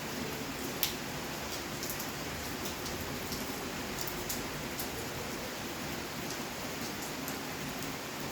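Steady rainfall, with scattered close raindrops tapping on a surface; one sharper tap comes just under a second in.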